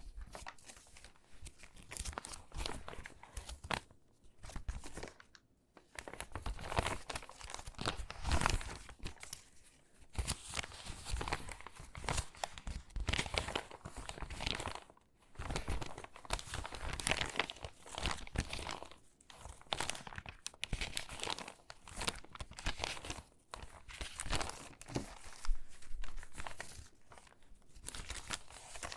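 Stiff, crinkly water-damaged magazine pages being handled and sorted by hand: bursts of crackling and rustling paper with short pauses between them.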